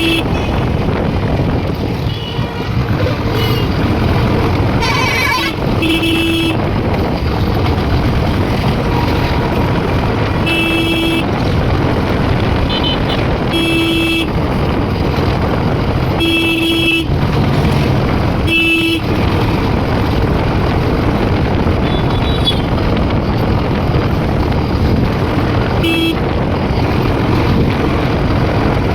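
Steady engine and wind rush of a motorcycle on the move, with a horn sounding short beeps, about seven times, of the same pitch each time.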